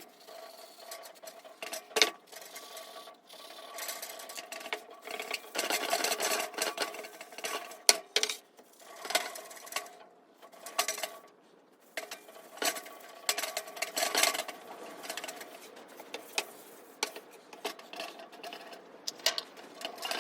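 Irregular scraping and rubbing strokes of hand work on a workpiece, like filing or sanding, with scattered sharp clicks and knocks.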